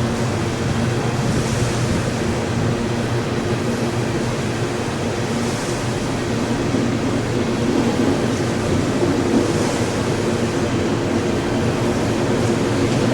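Freight train of gondola cars rolling past, a steady rumble of wheels on rail with a faint high hiss that swells about every four seconds.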